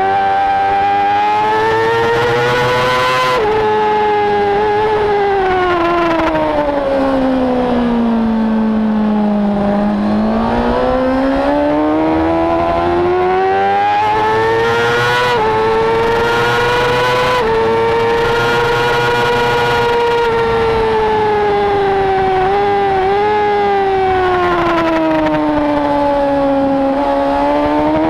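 Race motorcycle's engine, heard from onboard at racing speed over wind rush. Its note climbs, drops away to a low point about a third of the way in as the bike slows for a corner, climbs and holds high, then falls again and rises near the end, with small sudden steps in pitch at throttle and gear changes.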